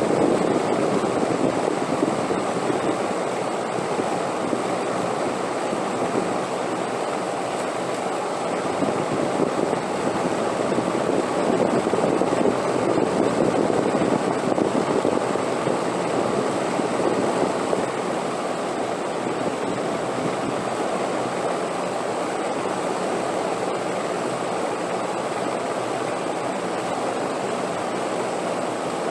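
Steady wind blowing, an even rushing that swells a little in the middle and eases again, with a faint thin high tone running under it.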